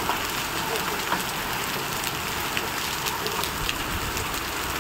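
Heavy rain falling steadily: a dense, even hiss with many separate drop hits ticking through it.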